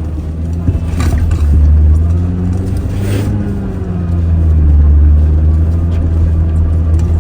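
Toyota Tacoma engine droning low and steady under heavy load, its pitch rising and falling briefly about three seconds in, with two short rushes of noise about one and three seconds in. The engine is lugging with little power, starved of air by a snow-packed snorkel and air filter.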